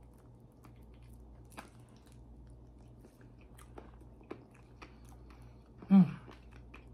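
A person chewing a mouthful of raw salmon sashimi: soft, wet mouth clicks. About six seconds in comes one loud hummed "mm" of enjoyment that falls in pitch.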